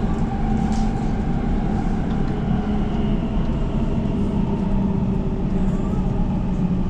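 Elizabeth line Class 345 electric train running in the tunnel, heard from on board: a steady rail rumble with a motor hum that dips slightly in pitch near the end.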